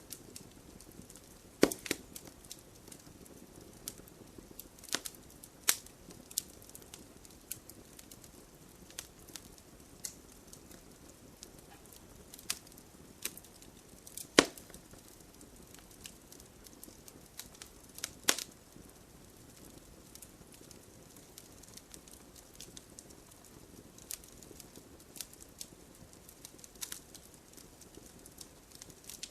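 Wood campfire crackling over a soft steady hiss, with irregular sharp pops; the loudest pops come about 2, 14 and 18 seconds in, and they thin out in the last third.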